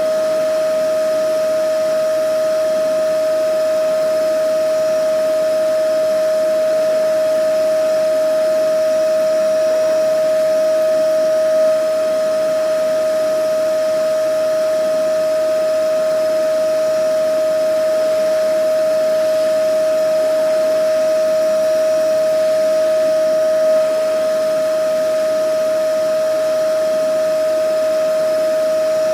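Vacuum cleaner running steadily: a constant high motor whine over an even rush of air.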